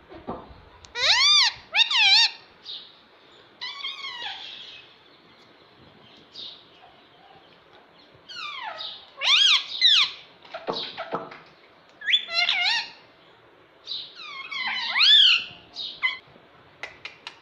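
Ring-necked parakeet calling in short shrill bursts, each call rising and then falling in pitch. The bursts come in about five groups, with quieter pauses of a second or two between them.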